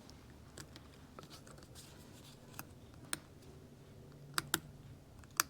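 Light metallic clicks and taps of a retaining clip being fitted onto the idler gear shaft of a Yamaha AT-1 engine, with two sharper clicks close together near the end.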